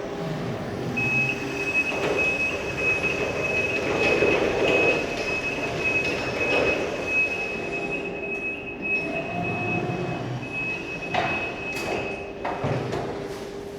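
Electric reach truck running, with a steady high-pitched tone held for most of the time over its mechanical noise. A few sharp knocks come near the end.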